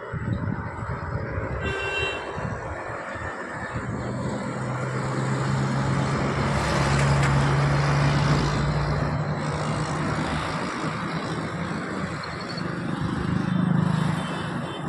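Train running on the tracks below: a steady low drone with a hum that swells to its loudest about halfway through and then eases off. A short high toot comes about two seconds in.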